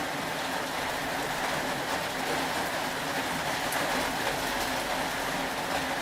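Steady rain: an even hiss with a few faint ticks of drops.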